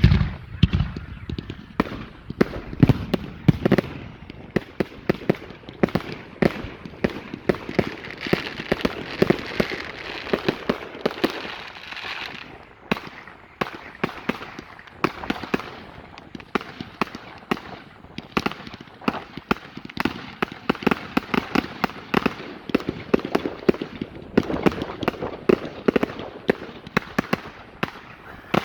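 Category 4 display fireworks going off in a rapid, continuous barrage of bangs and crackles, opening with one loud bang.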